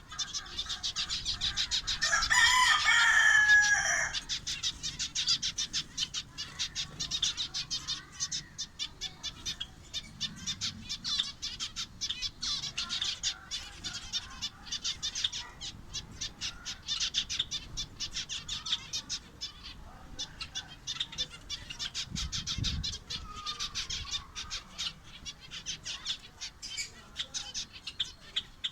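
A flock of finches chirping rapidly and continuously. A rooster crows once, loudly, about two seconds in.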